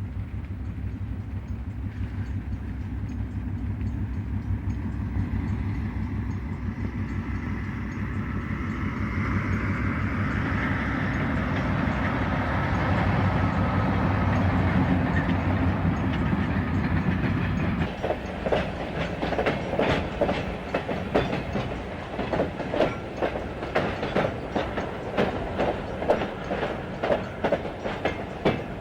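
Diesel-powered train approaching: the low engine drone grows steadily louder. About two-thirds of the way through it gives way to a rapid, rhythmic clickety-clack of wheels over rail joints as the cars roll past.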